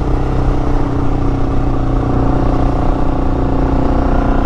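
Suzuki DR650's single-cylinder engine running at a steady pitch.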